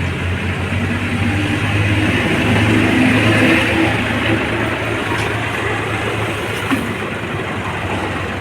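Sonalika Tiger DI 745 tractor's diesel engine running steadily, a little louder about two to four seconds in before easing back.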